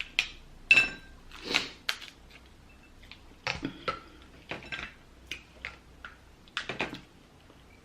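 A cooked lobster's shell being cracked and pulled apart by hand: a series of irregular sharp cracks and clicks, with a short ringing clink against a dish about a second in.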